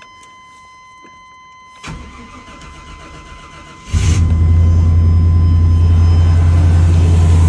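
A pickup truck's engine being started cold: a steady electronic warning tone sounds, the starter cranks for about two seconds, and the engine catches about four seconds in and settles into a steady idle. The start is a little bit of a struggle in the cold, but it still works.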